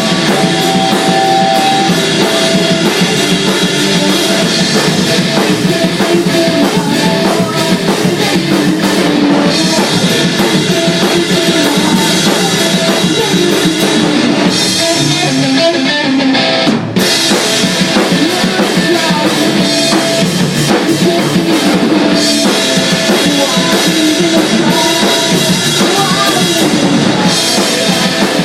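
Rock band playing loud music, the drum kit with bass drum and snare prominent, with a split-second break a little past halfway.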